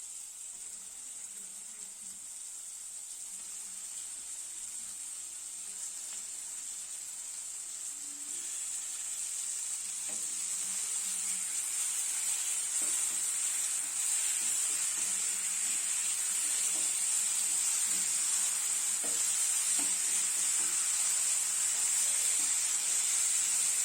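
Chicken pieces frying in oil with an onion, tomato and ginger-garlic masala in a pan: a steady sizzle that grows gradually louder, with a few light knocks of a spoon stirring.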